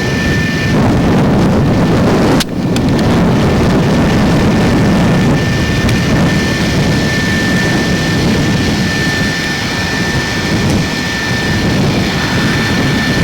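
Strong wind buffeting the camcorder microphone in a snowstorm: a loud, steady rumbling roar, with a brief break about two and a half seconds in and a faint steady high whine underneath.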